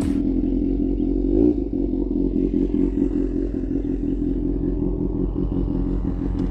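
Kawasaki Z800's inline-four engine with an SC Project aftermarket exhaust, idling steadily, with a brief small throttle blip about a second and a half in.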